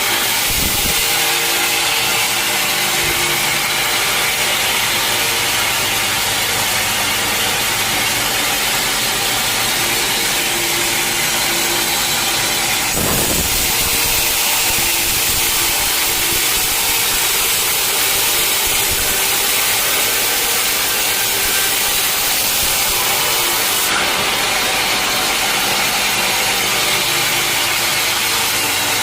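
Sawmill blade cutting through a teak log, with the mill's motor running steadily under the hiss of the cut. The sound shifts abruptly twice, about 13 and 24 seconds in.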